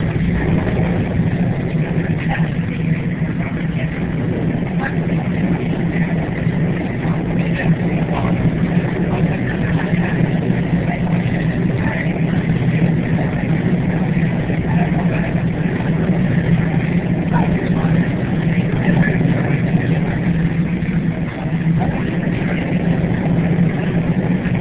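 Steady running rumble of a train, heard from inside a passenger carriage.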